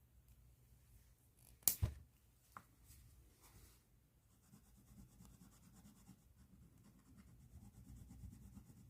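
A sharp click a little under two seconds in, then a pen writing or colouring on paper: a faint, fine scratching of quick strokes from about halfway through.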